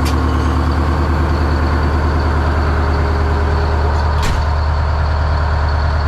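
Detroit Diesel engine of a classic monster truck idling steadily while warming up after months of sitting, with a brief sharp click about four seconds in.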